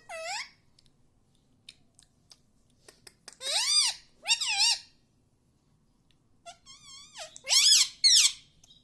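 Indian ringneck parakeet making short, high-pitched calls whose pitch rises and falls: one at the very start, two in the middle and two more near the end, with faint clicks between them.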